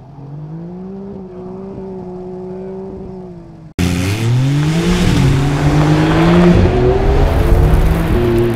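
Porsche 911 Dakar's 3.0-litre twin-turbo flat-six revving as the car slides on snow, its note dipping then climbing. About four seconds in it cuts abruptly to a much louder engine, its revs rising and falling, over a loud noisy rush of tyres spraying gravel and dirt.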